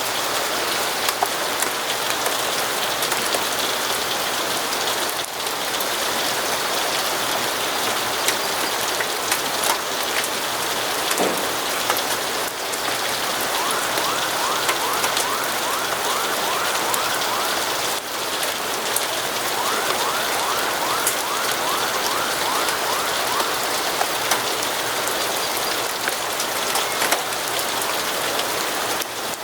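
Steady, dense rainfall. Twice in the middle, a rapid run of short repeated notes sounds faintly over the rain for a few seconds.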